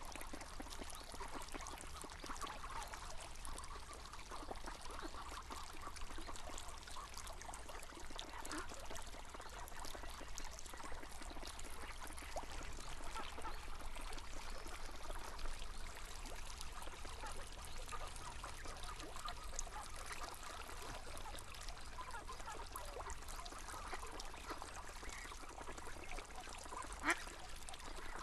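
Running river water with ducks quacking now and then, and one short sharp sound near the end.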